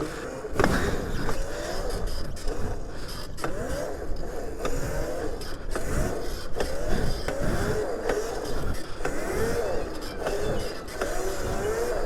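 Electric motor whine of a 76-volt Razor MX500 electric pit bike, rising and falling again and again as the throttle is worked, over low wind rumble on the microphone.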